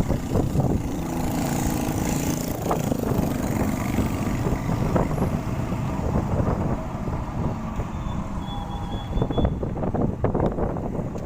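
Steady low rumble of motor vehicle traffic, with a few faint clicks.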